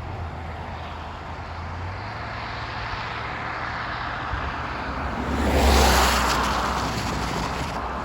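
A road vehicle passes close by, swelling up and fading away over about a second and a half near the end, over a low steady engine hum.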